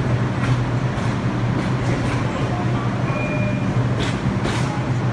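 R62 subway train at the terminal platform, giving off a steady low hum with a few faint short squeaks and clicks over it.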